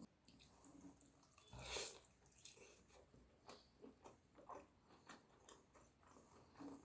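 Faint close-up chewing of food, with soft mouth clicks every half second or so, and one louder noise about two seconds in.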